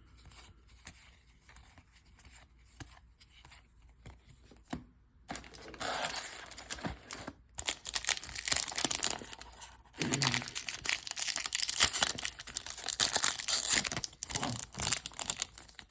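Quiet card handling at first, then about five seconds in a baseball card pack wrapper is torn open and crinkled, a loud crackling that goes on with short breaks.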